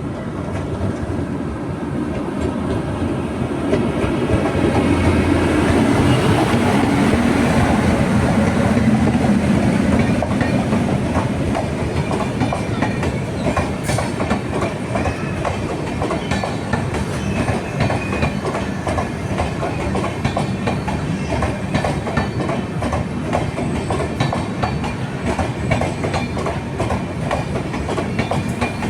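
Train running past on the track, its wheels clattering over the rails. The noise swells over the first few seconds, is loudest for several seconds after that, then runs on steadily.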